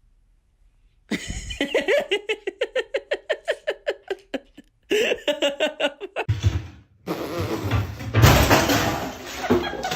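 A person laughing hard in rapid, evenly repeated bursts, about five a second, in two runs, followed by louder, rougher laughter mixed with noise in the last few seconds.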